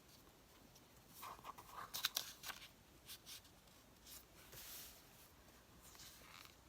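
Faint paper rustling and scissor snips as paper is cut and handled, with a cluster of small clicks from about one to three and a half seconds in and softer rustles after.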